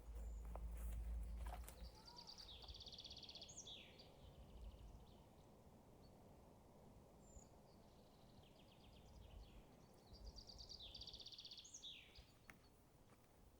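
A songbird sings twice, each time a fast high trill that ends in a quick falling note, against faint forest background. A low rumble runs through the first two seconds.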